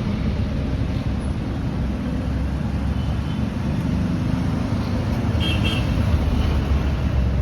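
Motor vehicle running steadily: a continuous low engine and road rumble with no pauses.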